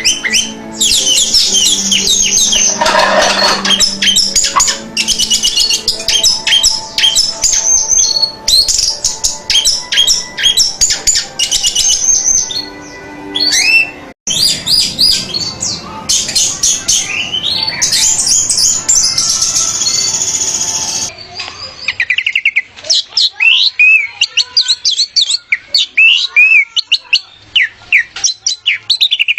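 Orange-headed thrush (anis merah) singing: fast, varied chirping and whistled phrases, packed close together. The recording changes abruptly about 14 seconds in and again about 22 seconds in, where different song recordings are joined.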